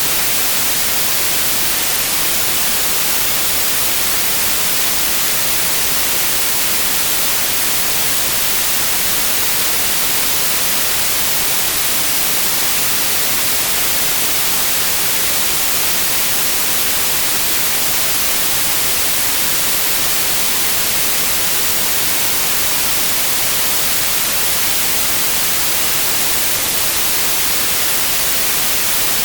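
Steady white noise: an even, loud hiss, brightest in the highs, with no change.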